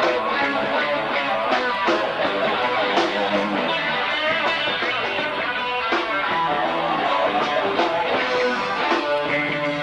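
Live band music: guitar strumming over bass guitar and drums, playing steadily throughout.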